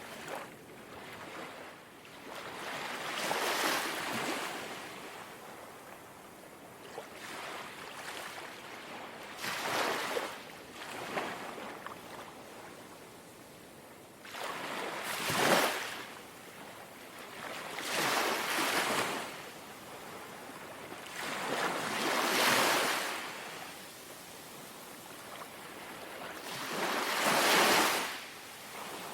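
Small, gentle sea waves lapping onto the shore. Each wash swells up into a soft hiss and then fades, about every four to five seconds.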